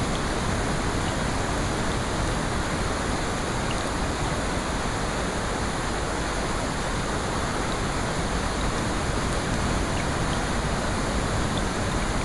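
Steady rain, an even rushing hiss with faint, scattered ticks of drops.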